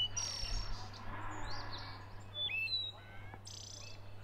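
Songbirds chirping in short, quick phrases, with two brief hissing scrapes, one near the start and one about three and a half seconds in, over a steady low hum.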